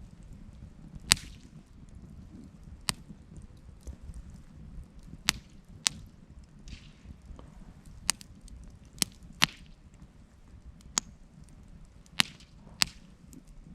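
Campfire crackling: about ten sharp pops of burning wood at irregular intervals over a low, steady rumble.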